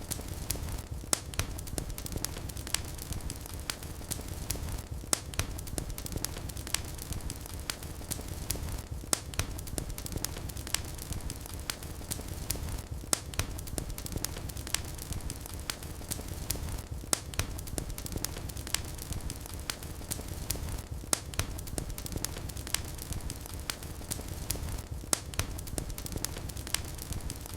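Wood fire in a fireplace crackling: frequent, irregular sharp pops and snaps over a steady low rumble of the flames.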